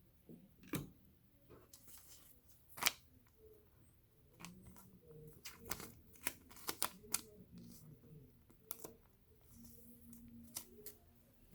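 Trading cards and packaging being handled at a table: a scattered series of light clicks and taps, the sharpest about three seconds in and a quick cluster a little past the middle.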